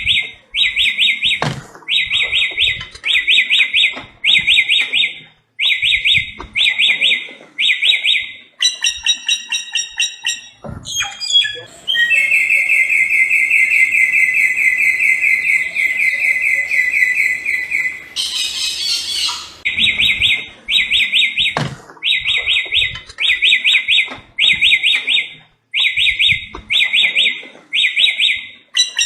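A samyong bird singing: repeated quick trilled phrases, each under a second, given in runs, with one long buzzy trill of about six seconds midway, ending in a short harsh hissing note before the short phrases start again.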